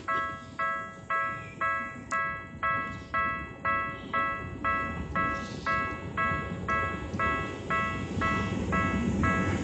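Japanese railroad crossing warning bell ringing in an even, repeating clang, about two strikes a second, each one fading. Under it a low rumble grows louder near the end as the train approaches.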